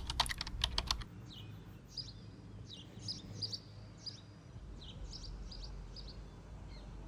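A quick run of about a dozen sharp clicks in the first second, then small birds chirping in short, repeated high calls.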